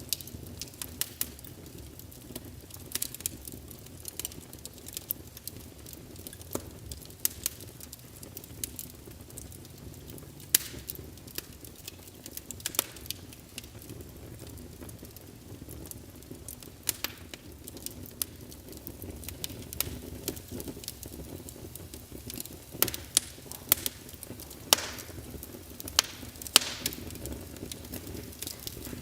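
Wood fire burning in a fireplace: irregular crackles and sharp pops from the burning logs over a low steady rush of flame, the pops coming more often and louder near the end.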